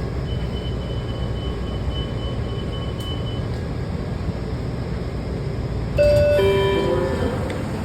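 Washington Metro railcar running with a steady rumble and a faint high whine for the first few seconds. About six seconds in, a louder descending two-tone chime sounds over it.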